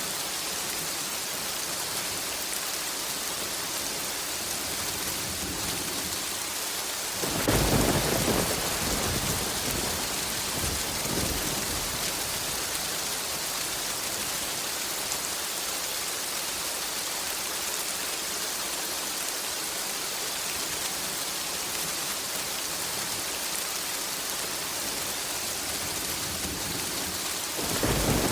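Steady rain falling, with a thunderclap about seven seconds in that rumbles on for several seconds, and another thunderclap starting near the end.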